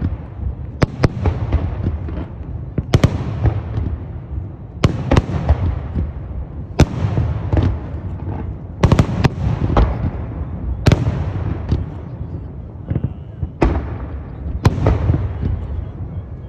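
Fireworks display: aerial shells bursting in irregular quick succession, sharp bangs each followed by a long echoing rumble and crackle.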